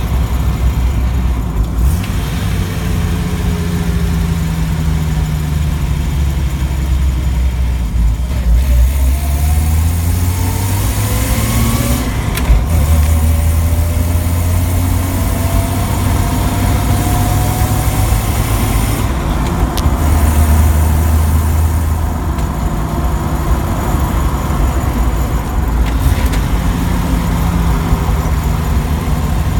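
Jeep Wrangler YJ with an AX-15 manual transmission being driven, its engine and drivetrain heard loudly over road noise. The engine note rises as it accelerates about a third of the way in and shifts again near the middle, like gear changes.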